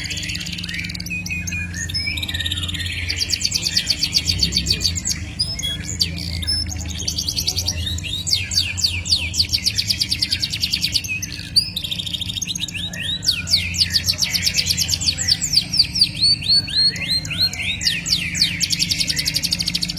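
Caged songbird singing a continuous stream of fast trills and rolling runs of rapidly repeated high notes, with short pauses between phrases, over a steady low hum.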